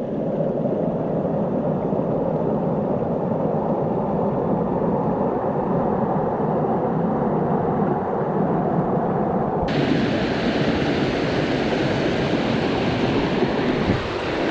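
Steady rushing of a mountain stream. About ten seconds in, the sound abruptly turns brighter and hissier.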